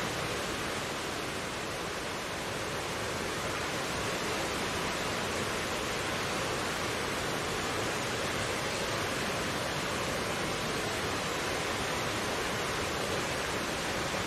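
Mountain stream flowing: a steady rush of water over rocks, even and unbroken.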